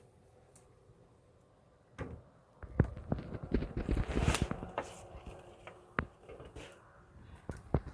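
Objects being handled: a run of knocks, clicks and rustling for a few seconds, then a single sharp click.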